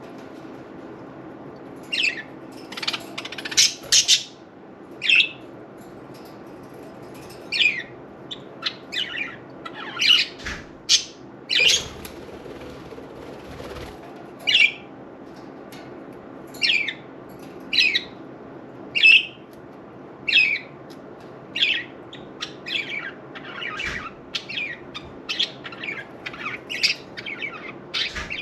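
Budgerigars chirping: a string of short, sharp calls, roughly one a second, over a steady low hum.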